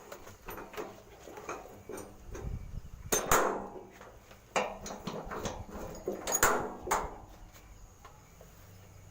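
Irregular knocks and clatter of hard objects, loudest about three seconds in and again about six and a half seconds in.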